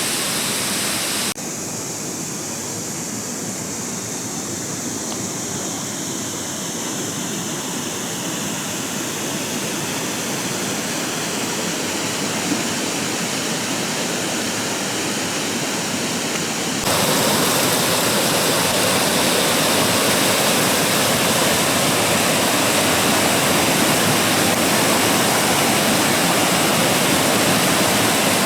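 Mountain stream rushing: a steady hiss of flowing water that changes abruptly twice, about a second in and again just past halfway, and is louder from then on.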